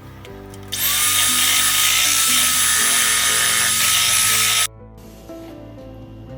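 A small high-speed electric motor appliance starts up about a second in, whirs loudly and steadily for about four seconds, and cuts off abruptly, over light background music.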